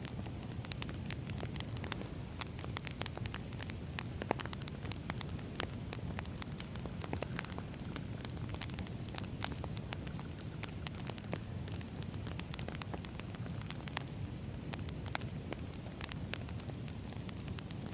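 Firewood burning: a steady low rumble with frequent sharp crackles and pops.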